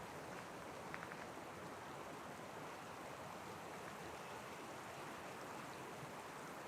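Faint, steady hiss of outdoor forest ambience, with no distinct events.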